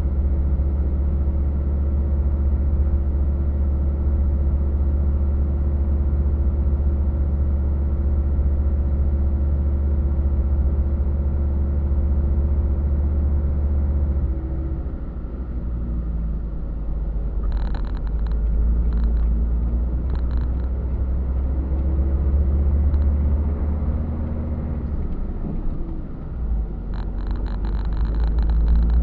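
Truck engine running steadily under way, with a low drone; about halfway through the engine note drops and becomes rougher. Short runs of rapid clicking come in twice, near the middle and near the end.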